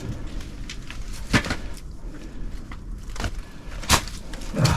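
Footsteps and scuffing on broken concrete and rubble, with a few sharp knocks as someone clambers through a gap.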